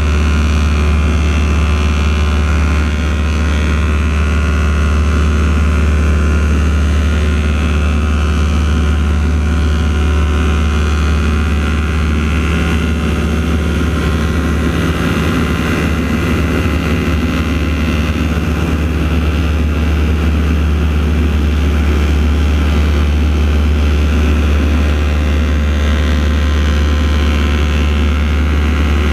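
Propeller aircraft engines running steadily overhead: the radial engines of the AeroShell team's T-6 Texans in a formation aerobatic routine, with a constant deep drone.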